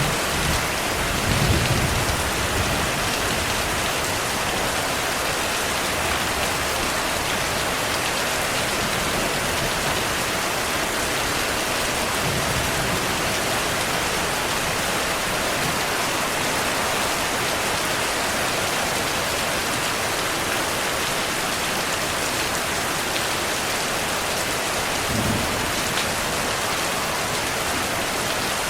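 Steady heavy rain falling, with a low thunder rumble about a second in and a shorter one near the end.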